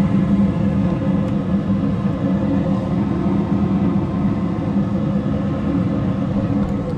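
A motor running: a steady mechanical hum with a low tone near 200 Hz and no break or change.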